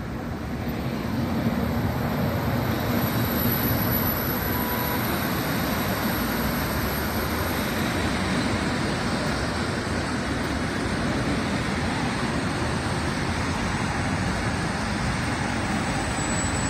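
Container freight train rolling past: the steady noise of its wagons' wheels running along the rails builds over the first couple of seconds and then holds level.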